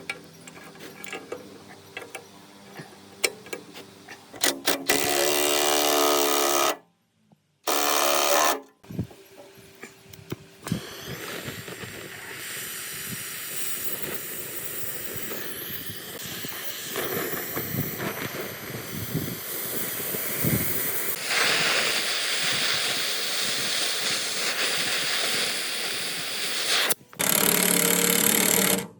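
Workshop tool noise in several short cut-together clips: scattered clicks and taps, a couple of loud bursts of a motor-driven tool, and a long stretch of rough grinding-type noise in the middle.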